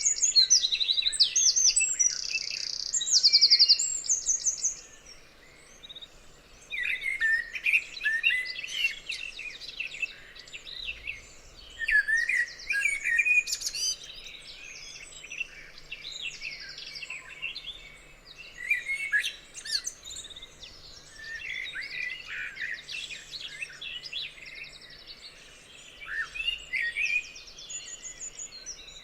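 Several songbirds singing. A fast, high trill of evenly repeated notes fills the first few seconds, then gives way to a busy mix of chirps and warbling phrases from different birds.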